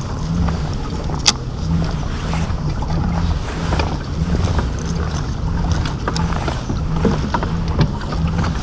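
A kayak under way on the water, heading in: a steady low rumble with a pulsing hum, and one sharp click about a second in.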